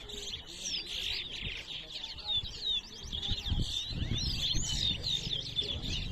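Towa towa (chestnut-bellied seed finch) song: quick, overlapping whistled and warbled phrases sung without a break during a singing race. A low rumble joins about halfway through.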